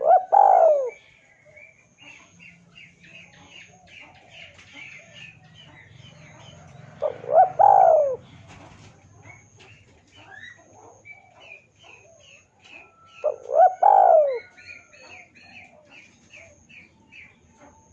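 Spotted dove cooing: three loud phrases about six to seven seconds apart, each a short note then a longer rising-and-falling coo. Small birds chirp faintly in between.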